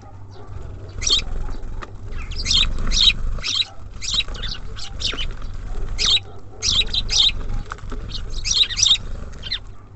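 Small songbirds at a feeder chirping busily, short calls coming in quick clusters throughout, over a steady low rumble.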